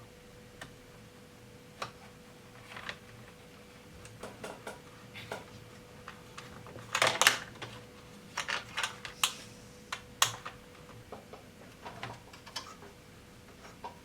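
Irregular plastic clicks and clatter from working on an opened Casio SA-75 keyboard, single clicks spaced out with a busy run of clatter about seven seconds in.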